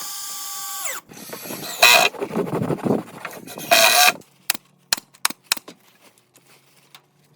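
Woodworking tool sounds: a small motor winding down in pitch and stopping about a second in, then rough scraping and handling of wood with two louder moments, then a string of scattered light taps.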